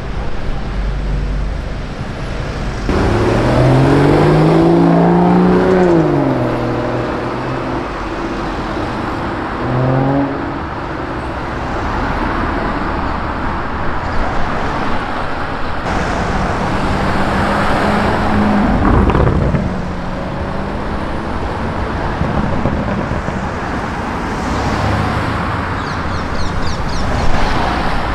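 Street traffic with a supercar's engine revving hard about three seconds in, its pitch rising and then falling as it accelerates away, a short rev again around ten seconds, and another vehicle swelling past near twenty seconds.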